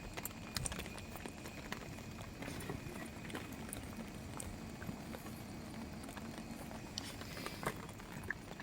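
Faint footsteps of a person walking, irregular light clicks and scuffs over a low steady background hiss.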